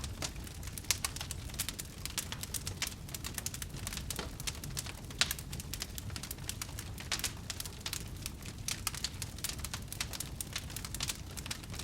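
Campfire crackling, with many quick sharp pops and snaps at irregular intervals over a low steady rumble.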